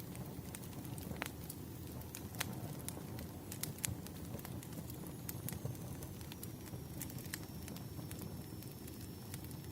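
Wood fire crackling: sharp, irregular pops and snaps over a low, steady rumble of burning logs. A faint thin high whistle comes in about halfway through.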